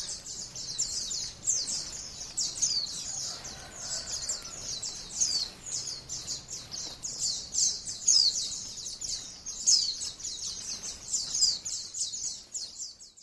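White-eye (pleci, Zosterops) singing a long, continuous high-pitched warbling run of rapid chirps and quick downward-sweeping notes, the fast 'ngalas' style of song used as a training recording for caged pleci. It cuts off suddenly near the end.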